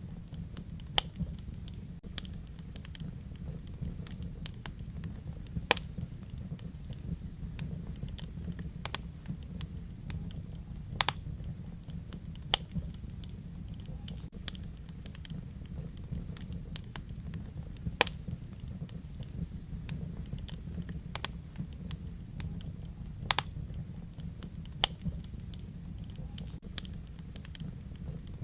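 Wood fire burning in a fireplace: a low, steady rumble of flames under irregular sharp crackles and pops, about seven of them louder than the rest.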